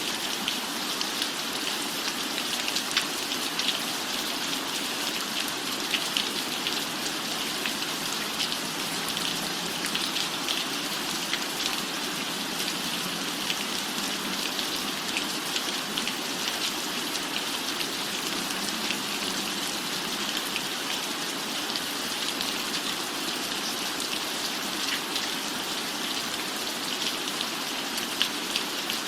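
Steady, even rainfall with a constant patter and scattered sharper ticks.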